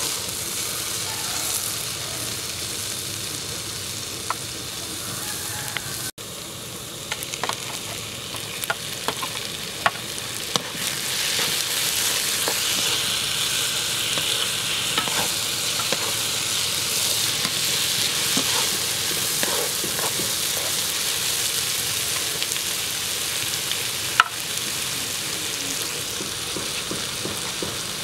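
Diced onion and potato frying in oil in a nonstick pan, sizzling steadily while a wooden spatula stirs and scrapes them, with scattered light clicks of the spatula against the pan. The sizzling grows louder about ten seconds in, and chopped tomato is frying with them in the second half.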